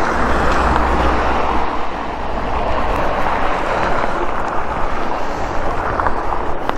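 A car driving along a flooded, rain-soaked road, with its tyres hissing through the surface water. A deep rumble in the first second or so eases off, and the hiss carries on steadily.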